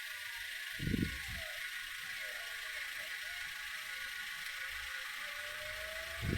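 Street traffic noise: a steady hiss with a faint vehicle engine whose pitch rises slowly near the end. Two short low thumps, one about a second in and one near the end.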